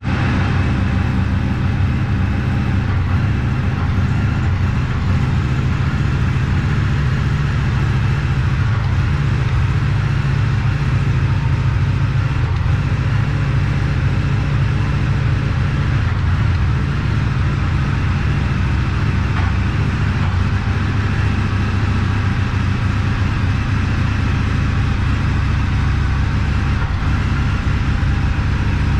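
Indian FTR 1200's V-twin engine idling steadily through an Akrapovic exhaust, with no revving.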